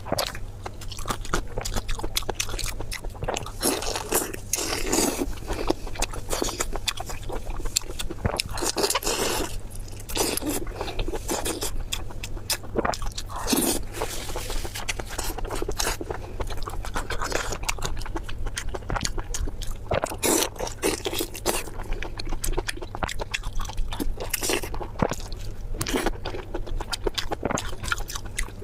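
Close-miked eating: a person chewing and crunching food, a continuous run of crisp crackles and bites.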